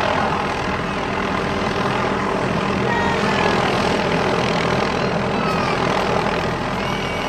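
Helicopter running overhead, a steady engine and rotor drone.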